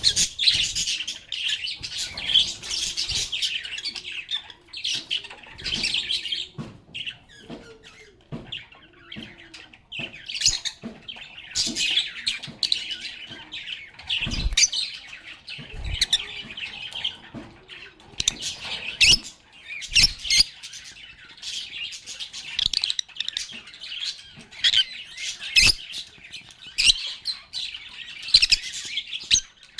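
A group of pet lovebirds (Agapornis) chirping and chattering continuously, many short high calls overlapping, with a few brief low thumps in the middle.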